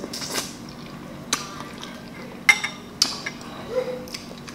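Close-miked biting and chewing of corn on the cob: a handful of sharp, separate crunching clicks as the kernels break.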